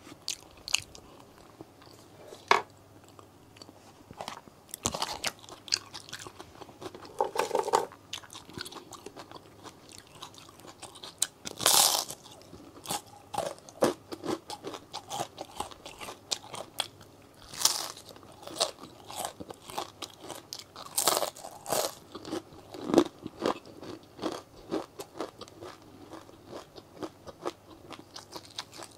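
A person biting and chewing crispy fried food, waffle fries among it, close to a clip-on microphone: irregular wet crunches and chewing, the loudest crunches about twelve seconds in and again past twenty seconds.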